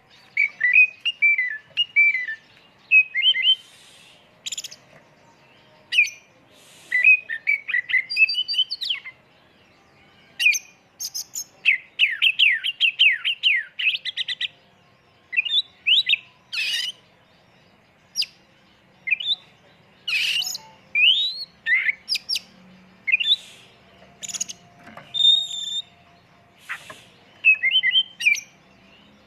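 Oriental magpie-robin (kacer) singing in short varied phrases of rapid chirping trills and sharp sweeping whistles, with brief pauses between phrases. The song is full of the sharp shot-like notes that keepers call tembakan.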